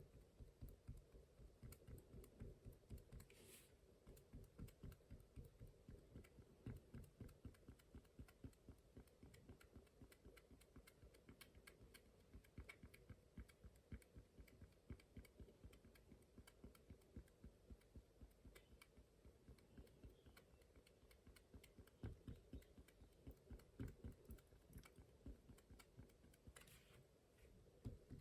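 Fine-liner ink pen tip tapping dots onto watercolour paper: faint, rapid, even taps, about three a second.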